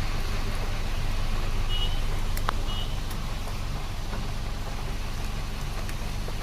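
Road traffic with a steady low rumble of vehicle engines, and two short high beeps about a second apart, with a sharp click between them.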